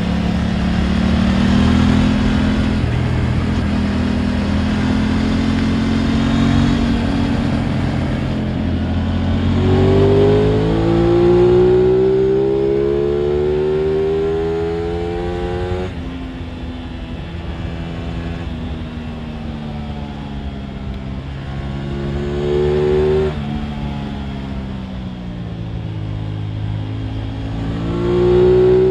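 Aprilia RS 660 parallel-twin sport-bike engine heard from on board: it pulls hard with a long rising pitch from about a third of the way in, drops off suddenly, then winds down, with two shorter bursts of throttle later on. A steady rush of wind runs under it.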